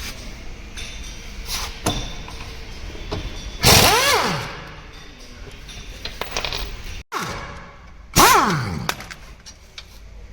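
Workshop tool work on the car's front end: two loud bursts of a spinning power tool about four seconds apart, each sweeping up and then falling away in pitch, among scattered knocks and clinks of metal.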